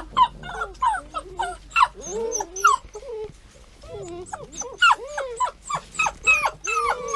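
Bernese Mountain Dog puppies whining and yipping in short, high-pitched calls, several a second, with a brief lull about three seconds in.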